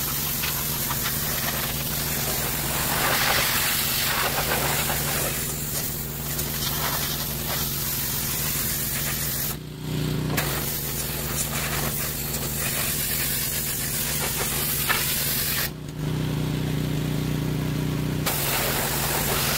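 Pressure washer spraying water onto a truck, a steady hiss over the hum of the washer's motor. The spray stops briefly about ten seconds in and again for about two seconds near the end, leaving the motor running on its own.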